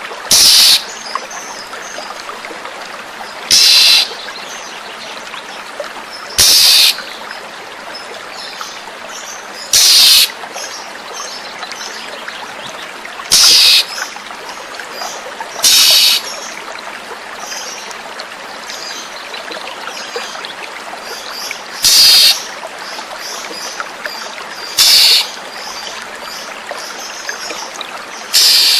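Oriental magpie-robin (kacer) lure recording: about nine short, loud, rasping calls, one every three seconds or so, over steadily trickling water, with faint high twitters in between.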